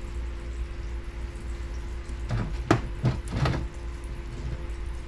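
A few short knocks and clunks in quick succession, about halfway through, from metal parts being handled on a workbench, over a steady low hum.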